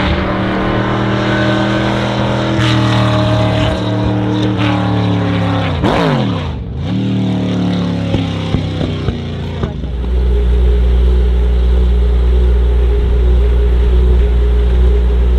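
Lotus Emira GT4 race car's supercharged 3.5-litre V6 running hard on track, its pitch climbing through the revs. About six seconds in the pitch drops sharply and climbs again. From about ten seconds on it settles into a steady low drone.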